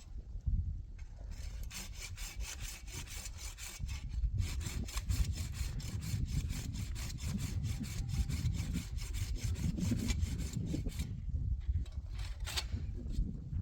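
Hand saw cutting wood in fast, even strokes, about four a second, starting about a second in and stopping near the end, with a low rumble underneath.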